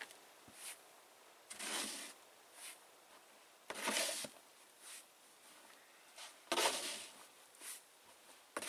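Snow shovel scooping and scraping through deep, heavy snow in a slow rhythm: three strong scrapes about two and a half seconds apart, each followed by a fainter one.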